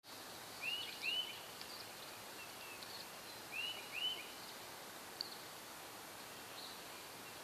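Bird chirping over a faint steady outdoor hiss: two pairs of short, arched chirps, the second pair about three seconds after the first, with a few fainter high peeps between.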